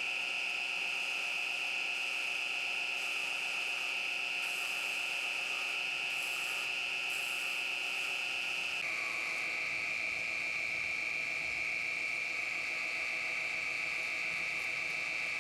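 Wood lathe running with a steady high-pitched motor whine; the whine steps down slightly in pitch about nine seconds in.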